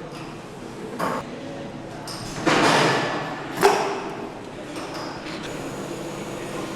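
Engine assembly-line noise in a large hall: a steady machine hum broken by a knock about a second in, a burst of rushing noise, and then a sharp metallic clank, the loudest sound, just before four seconds.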